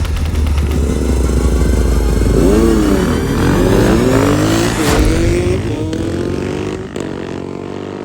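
Dirt bike engine revving hard, its pitch rising and falling several times as it is throttled and shifted, then dropping to a lower, quieter run near the end.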